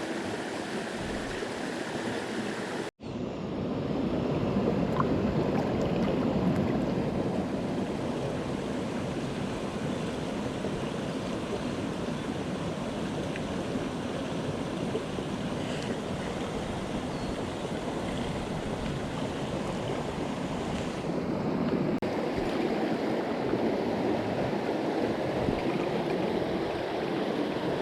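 Mountain stream water rushing steadily over rocks, with a brief dropout about three seconds in where the sound cuts and resumes.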